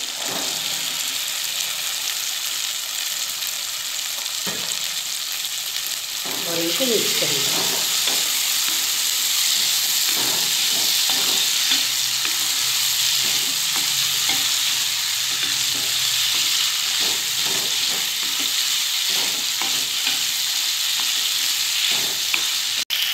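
Boiled black chickpeas and onion-tomato masala sizzling in oil in a wok while a spatula stirs and scrapes through them. The sizzling gets louder about six seconds in.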